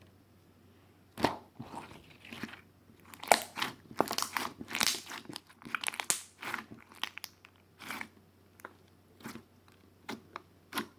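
A pig chewing and crunching food in irregular bites, dense for several seconds and then slowing to occasional single crunches.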